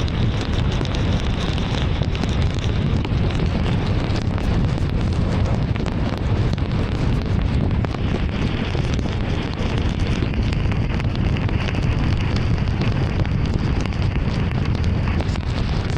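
Heavy rain on a moving car, with a dense scatter of small drop ticks over the steady low rumble of tyres on a flooded, wet road.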